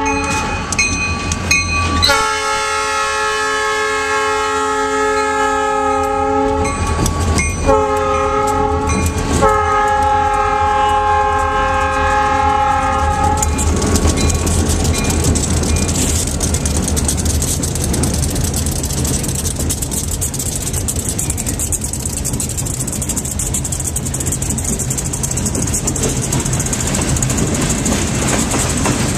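Wisconsin Southern freight train's SD40 locomotive horn blowing a multi-note chord in several blasts with short breaks for about the first half, then the train rolling past with steady wheel clatter and rumble on the rails.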